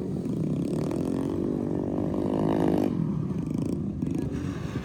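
Motorcycle engine revving, its pitch rising gradually, then dropping away suddenly about three seconds in.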